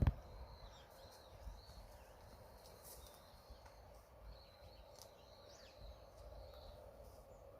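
Faint outdoor ambience with small birds chirping now and then and a few light ticks.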